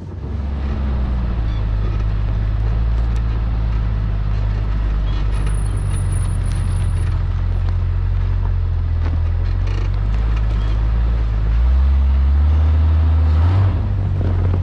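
Off-road vehicle engine running steadily under way at low speed. Near the end it gets louder and rises in pitch for about two seconds, then drops back.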